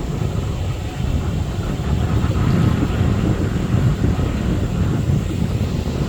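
Wind buffeting the microphone: a continuous low, gusty rumble.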